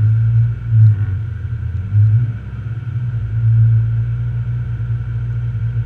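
Rally car's engine idling at the start line of a special stage, heard from inside the cabin as a steady low drone that swells and eases slightly.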